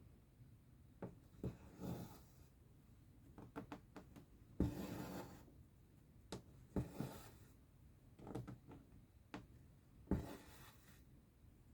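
Needle and thread being pulled through cross-stitch fabric, stitch after stitch: each stitch a sharp tick followed by a short swish of thread, about every two seconds.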